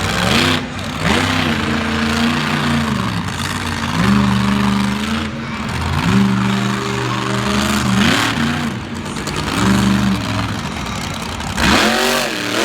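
Monster truck's big engine revving hard again and again, each rev climbing quickly in pitch and then holding at high revs for a second or two before dropping back.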